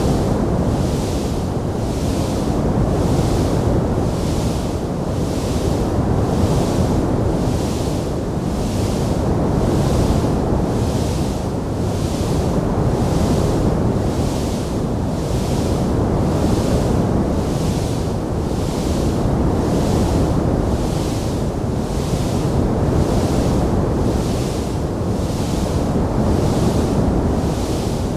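Steady rushing noise of a wood fire burning in a fireplace, with a hiss on top that swells and fades at an even rhythm.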